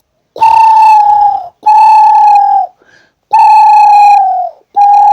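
A man imitating a dove's cooing by mouth, without a leaf: four long whistled hoots of about a second each at one steady pitch, each dipping slightly at its end, with short gaps between them.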